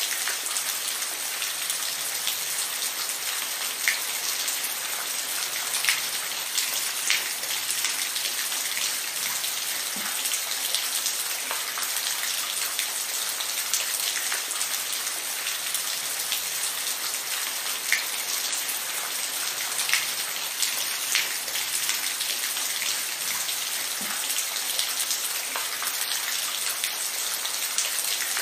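Steady rainfall: an even hiss of rain with scattered louder drops tapping close by.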